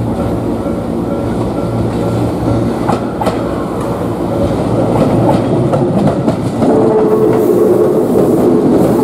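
Tobu 10030 series electric train rolling slowly past at close range, its wheels clacking over rail joints and points. It gets louder, with a steady hum, as the cars come alongside about seven seconds in.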